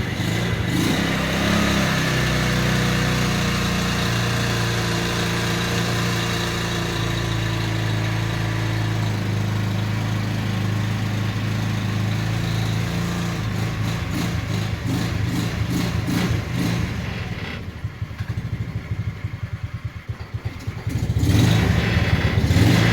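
Go-kart engine running rough on a cold start after months of sitting, missing now and then. It runs steadily for a while, turns uneven, nearly dies into a weak sputter, then picks back up and runs strongly near the end.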